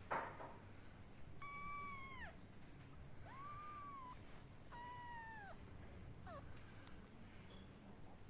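Ten-day-old kitten mewing: three high, drawn-out mews that each drop in pitch at the end, then one short mew, after a brief knock at the start.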